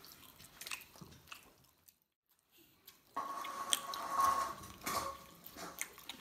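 Close-up wet chewing and mouth smacking of someone eating frog meat, with small clicks, dropping to near silence for about a second partway through. After that gap, a steady faint tone comes in alongside more clicks and mouth sounds as a fork picks at the plate.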